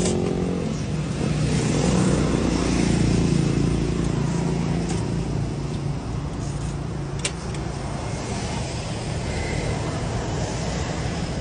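A vehicle engine running steadily, a little louder around two to four seconds in, with a single sharp click about seven seconds in.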